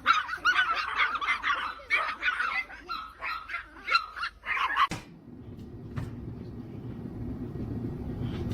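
Quick, high, pitch-bending animal calls, one after another, for about five seconds. Then a click, and a steady low noise that slowly grows louder.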